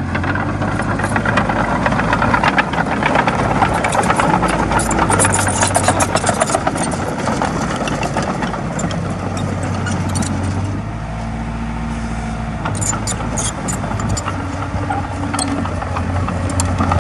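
Komatsu D20A crawler bulldozer's diesel engine running steadily, with dense metallic clatter and rattling over it as the machine works, heaviest in two stretches.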